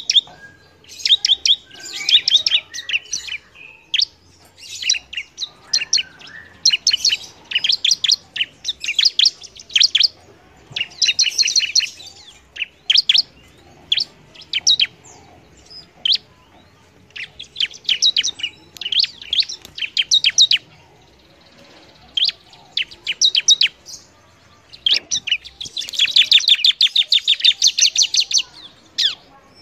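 Bar-winged prinia (ciblek) singing vigorously: repeated short phrases of rapid, high chirps with brief pauses between them, and a longer, denser phrase near the end.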